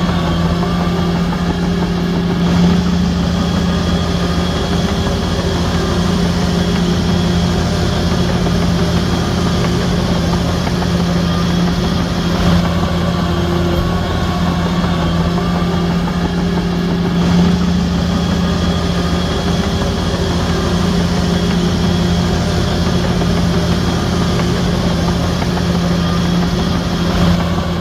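Heavy diesel engine of an earthmoving machine running steadily, with a few slight swells in level.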